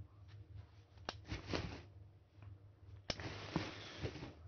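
Biting into a crisp piece of unripe mango and chewing it, a crack about a second in followed by a short crunching noise. About three seconds in comes another sharp click, then a denser rustling noise.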